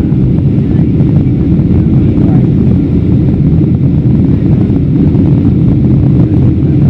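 Cabin noise inside a Boeing 737-700 in flight: a steady low rumble of airflow and its CFM56-7B engines during the descent.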